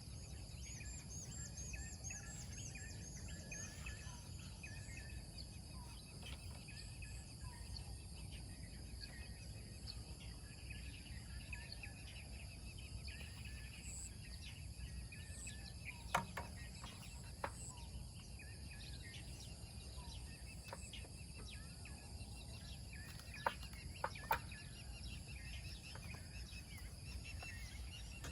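Outdoor morning ambience: many small birds chirping over a steady high-pitched drone and a low rumble. A few sharp knocks come about halfway through and again later.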